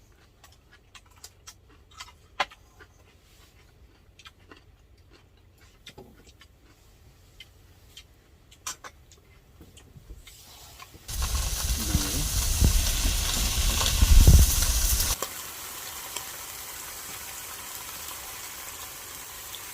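Scattered small clicks of eating utensils, then about eleven seconds in a sudden loud rush of hissing from the cooking on the camp stove, lasting about four seconds before settling to a steady, quieter hiss.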